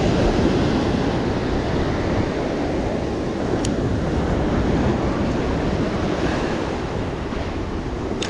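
Ocean surf washing steadily on the beach, with wind rumbling on the microphone. A brief faint click comes about three and a half seconds in.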